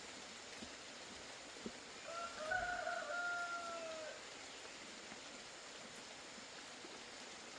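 A rooster crowing once, a single call about two seconds long starting about two seconds in, over a steady background hiss.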